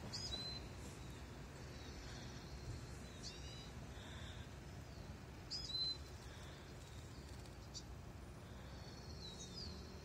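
Bird calls: about four short, sharp chirps spaced a few seconds apart, each with quick notes sliding downward, over a steady low background rumble.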